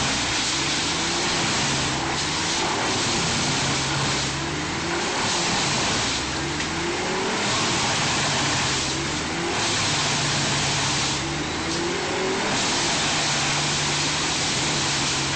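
Wood chipper running hard, its engine pitch dipping and recovering under changing load. Surges of shredding noise come about every two seconds.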